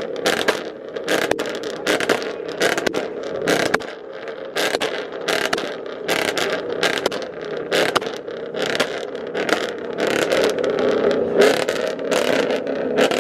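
Car engines running in slow, stop-and-go traffic, with many short, sharp noisy bursts over the steady engine sound.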